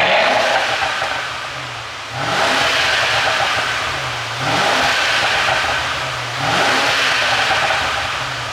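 Mercedes-Benz S500's twin-turbo V8, running an ECU tune meant to give exhaust pops, revved in four sharp blips about two seconds apart, each settling back down between.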